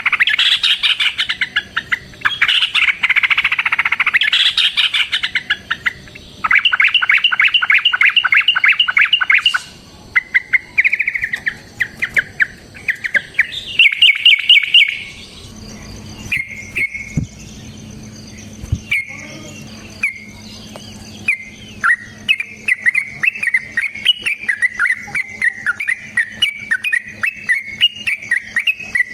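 Yellow-vented bulbul song: loud chattering phrases and long, fast rattling trills. About halfway through they give way to softer, rapid runs of notes.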